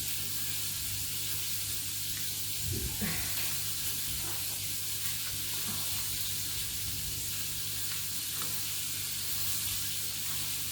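Food sizzling steadily in a heavily loaded frying pan, with a few faint scrapes of stirring and a steady low hum underneath.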